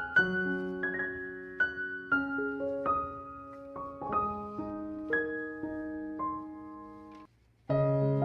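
Gentle solo piano background music, slow struck notes and chords; it drops out for a moment about seven seconds in, then comes back on a new chord.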